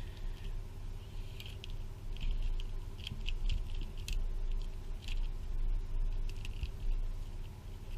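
Plastic clicking and rattling of a 2x3x3 cuboid twisty puzzle being turned quickly in the hands while it is being solved: irregular quick clicks, several a second.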